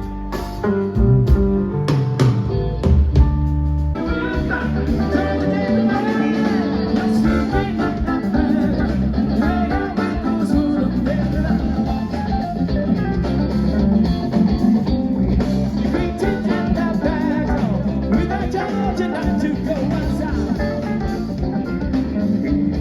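Live blues-funk band playing an instrumental stretch. There are several heavy band hits with drums in the first four seconds, then a busy lead line with bending notes over the drums and bass.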